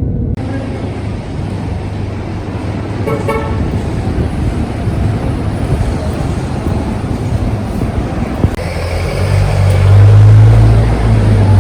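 Road traffic. A short car horn toot comes about three seconds in, then a nearby vehicle engine runs with a low steady tone from about eight seconds in, the loudest sound here.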